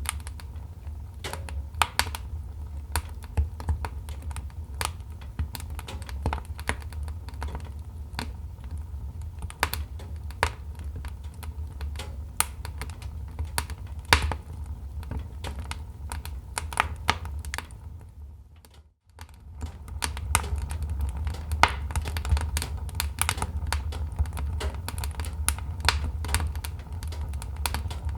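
Wood fire crackling: irregular sharp pops and snaps over a steady low rumble. It fades out briefly about two-thirds of the way through, then comes back.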